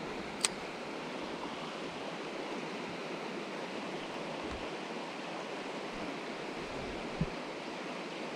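Mountain stream water rushing steadily, with a sharp click about half a second in and a soft thump near the end.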